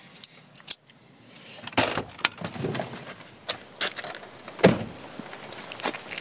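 Car keys clicking and jingling, then a car door being opened and slammed shut with a heavy thud a little before the five-second mark, followed by a few footsteps.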